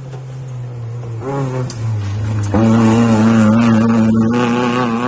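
Rally car engine approaching at high revs, growing steadily louder, with a sudden jump up in pitch and loudness about two and a half seconds in.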